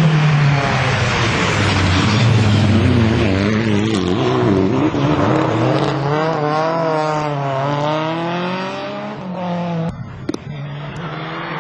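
Mitsubishi Lancer Evolution IX rally car's turbocharged four-cylinder engine driven hard, its revs rising and falling again and again through gear changes and throttle lifts. The sound drops off abruptly about ten seconds in.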